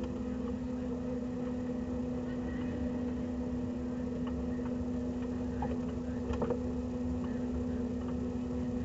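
Track car's engine running at steady low revs while the car crawls along at low speed, heard from inside the stripped cabin. A few light clicks and knocks come about six seconds in.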